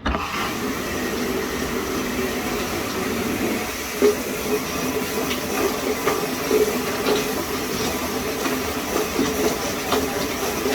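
Commercial high-pressure shower head turned on suddenly at full pressure, its spray giving a steady hiss. A few sharp knocks stand out, the loudest about four seconds in.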